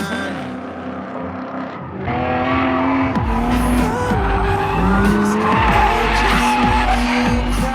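Drift car engine revving up and down while its tyres squeal and skid through a slide, growing louder about two seconds in. Music plays underneath.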